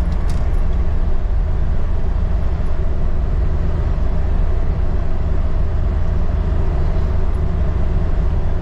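Steady rumble of a vehicle driving at an even speed on the road, engine and road noise without a break.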